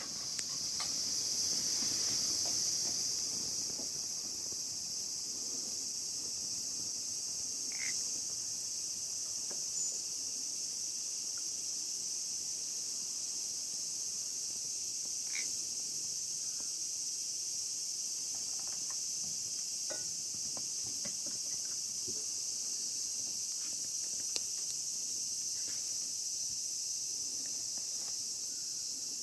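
Steady chorus of insects, crickets or similar, a continuous high-pitched trilling that doesn't break, with a few faint chirps and clicks over it.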